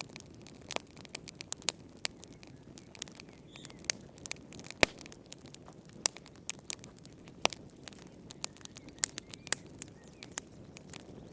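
Wood fire in a fireplace crackling: irregular sharp pops and snaps, a few each second, over a soft low rush of flame. One louder snap comes about five seconds in.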